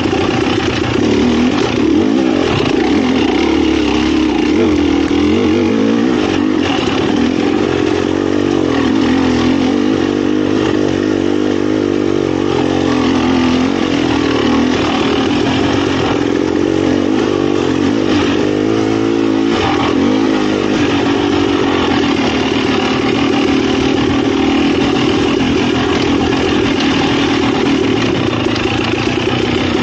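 Dirt bike engine running continuously under changing throttle, its note rising and falling as the rider works along a rough trail.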